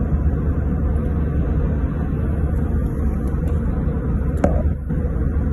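Airliner cabin noise in flight: a steady low rumble of engines and airflow with a faint steady hum, and a single sharp click about four and a half seconds in.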